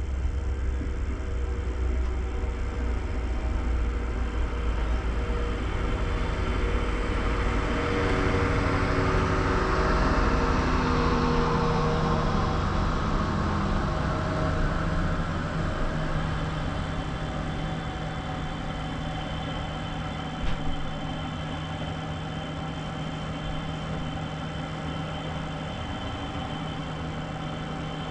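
Diesel engine of a UTM5 track maintenance railcar passing close by on the next track; its engine note falls in pitch as it goes past about ten seconds in. A steady low engine hum follows.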